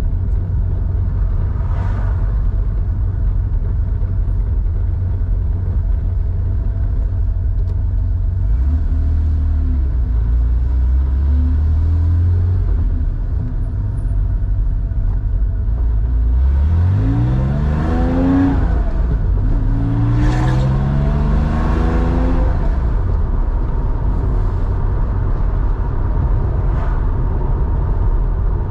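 Air-cooled flat-six of a 1987 Porsche 911 3.4 with a 2-in-1-out muffler, running steadily under way. About two-thirds of the way through the revs climb sharply, fall at a gear change, and climb again.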